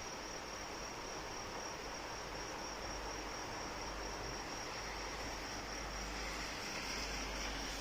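Steady rain hiss with insects trilling continuously in one high, unbroken note. The hiss swells a little for about a second and a half near the end.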